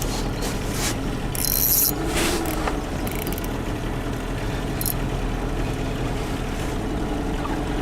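Boat motor running steadily at low trolling speed, an even hum. A short high rattle comes about one and a half seconds in.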